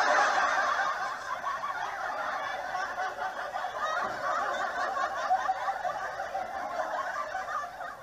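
Laughter sound effect: several people laughing at once, many overlapping laughs running on continuously and densely.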